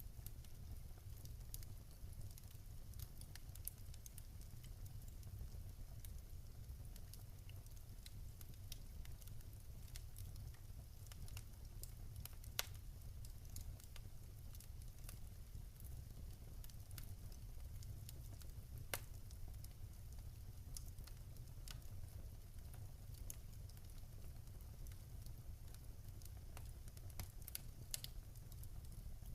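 Wood fire crackling in a fireplace: a steady low rumble of burning with scattered small pops and a few louder snaps, two of them about twelve and nineteen seconds in and a cluster near the end.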